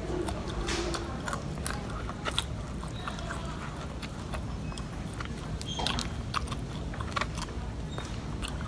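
Close mouth sounds of someone biting and chewing fried catfish, with irregular small crunches and clicks.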